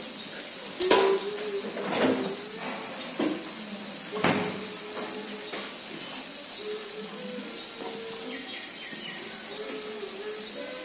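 Bhaji sizzling in butter in a frying pan, a steady hiss, with three sharp utensil knocks in the first half.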